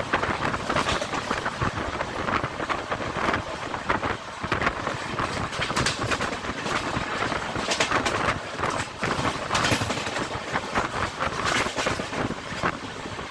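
Passenger train running at speed, heard from an open window: a steady rush of wind on the microphone with the rumble and irregular clatter of wheels on the rails.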